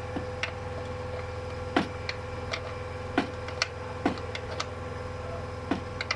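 Hand tools clicking and knocking on metal engine parts at irregular intervals, about ten times, over a steady machine hum.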